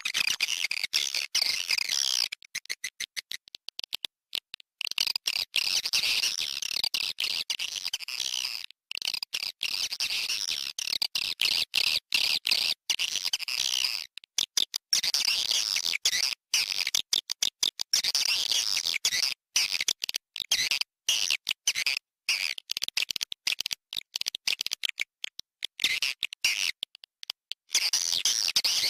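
Recorded swiftlet calls played as a lure (SP walet, 'calling sound'): dense, high twittering chirps of many swiftlets, broken again and again by brief silent gaps.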